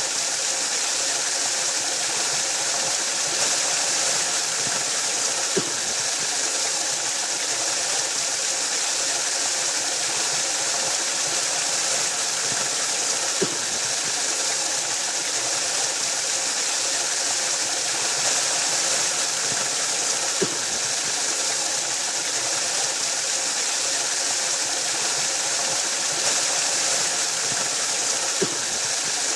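Waterfall: a steady, unbroken rush of falling water, bright and hissy, with a faint tick about every seven to eight seconds.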